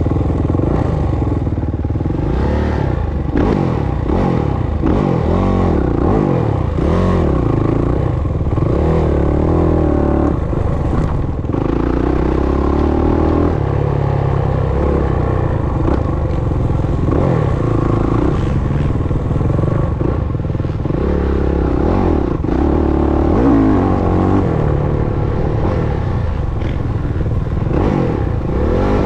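Dirt bike engine being ridden hard on a motocross track, its pitch rising and falling over and over as the rider opens and closes the throttle and shifts gears.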